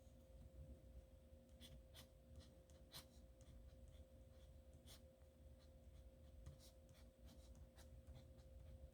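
Faint scratching of a nib pen on paper: short, irregular strokes and ticks as letters are written, over a steady low electrical hum.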